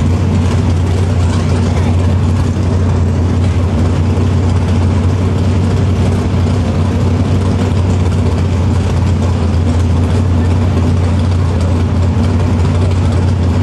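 Datsun drag car's 2.3-litre turbocharged engine idling steadily at the starting line, a loud, even low drone with no revving.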